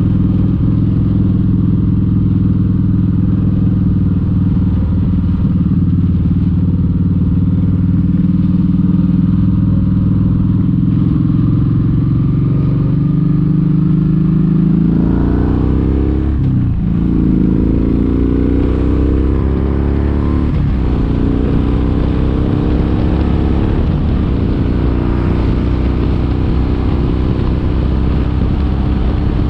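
Kawasaki Vulcan 1700 Vaquero's V-twin engine running at a steady pitch. About halfway through it pulls away and accelerates through the gears, the pitch climbing and then dropping back at each of three upshifts.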